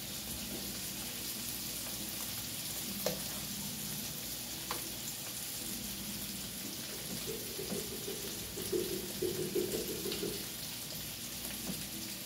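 Liver frying in its own juices in a large aluminium pan, a steady sizzling hiss, with a couple of light clicks about three and five seconds in.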